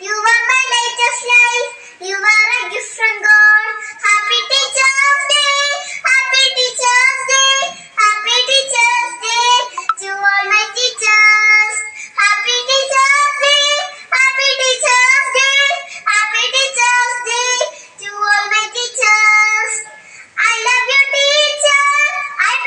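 A young child singing a song in a high voice, in phrases of about two seconds with short breaths between.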